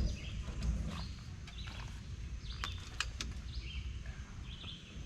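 Outdoor ambience with faint bird chirps, broken by several sharp clicks and knocks, a cluster of them about three seconds in.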